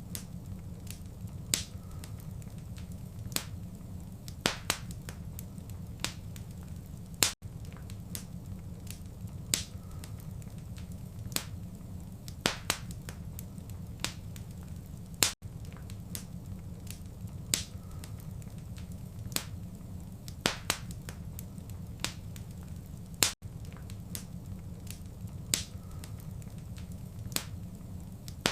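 Wood fire crackling: irregular sharp pops and snaps, several a second, over a steady low rumble of the flames. A brief gap about every eight seconds marks where the looped recording repeats.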